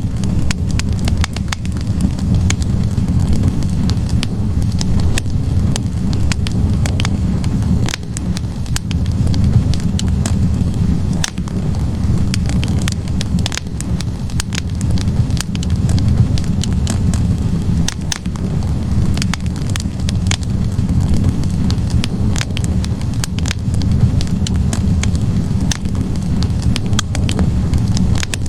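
Wood logs burning in a fireplace: a steady low rush of flame with frequent, irregular sharp crackles and pops from the burning wood.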